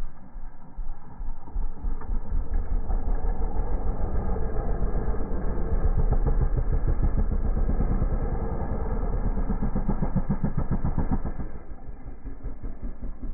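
Dirt bike engine running, louder and held on the throttle through the middle, then dropping back about two-thirds of the way through.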